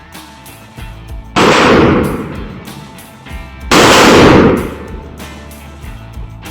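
Thompson M1928 .45 ACP submachine gun firing twice, about two seconds apart, each loud report lasting about a second and fading off, over background music with guitar.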